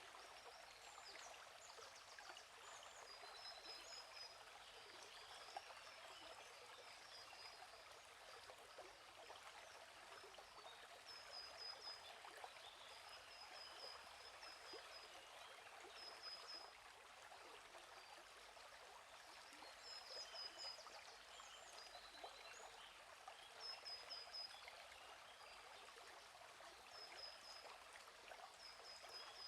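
Faint, steady trickle of a gently flowing stream. Small birds chirp above it in short runs of quick repeated high notes, several times throughout.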